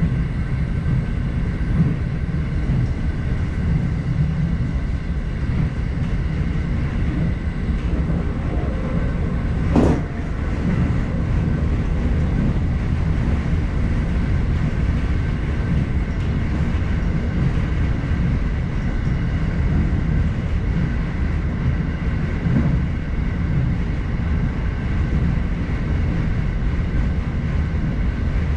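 Electric commuter train running along the line, heard from inside the front car: a steady rumble of wheels on rail, with one sharp knock about ten seconds in.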